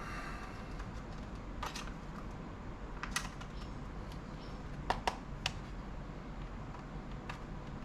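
About six light, sharp clicks and taps, scattered across a few seconds, with a quick pair about five seconds in. They come from a screwdriver and small parts handled against a laptop's plastic case during disassembly.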